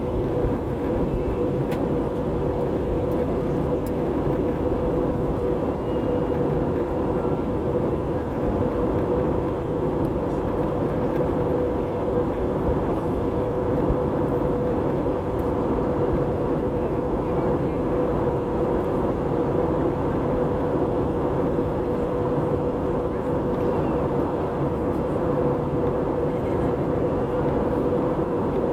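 Jet airliner cabin noise in flight: the steady drone of the engines and rushing air, with a constant hum running through it.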